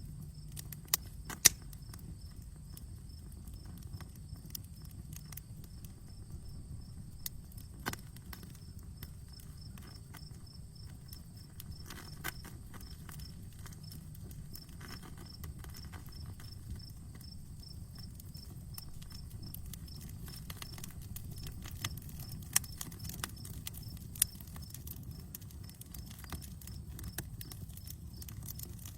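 Wood campfire burning with irregular crackles and sharp pops over a steady low rush of flame; the loudest pops come about a second and a half in, near eight seconds, and twice in the last third.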